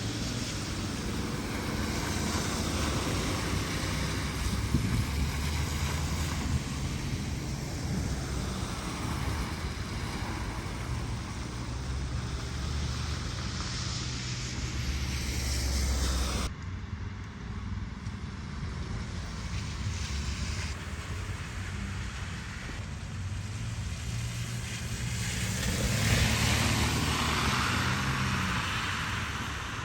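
Street ambience: cars passing now and then with a low engine rumble over a steady whoosh of traffic and wind. The sound drops abruptly a little past halfway, then swells again near the end as another vehicle goes by.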